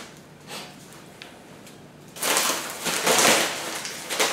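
Packaging rustling and crinkling as it is unwrapped by hand. It starts loudly about two seconds in, after a quiet stretch with a few faint handling clicks.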